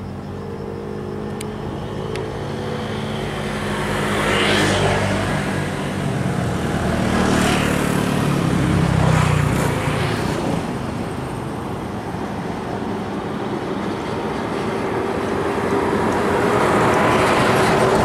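Diesel locomotive running as the train approaches, its engine drone growing louder. Near the end the wheels begin clacking over the rails.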